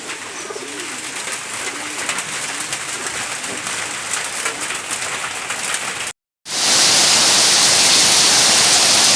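Steady rain pattering, with doves cooing in the first couple of seconds. About six seconds in the sound cuts out for a moment, then returns as a louder, denser downpour hiss.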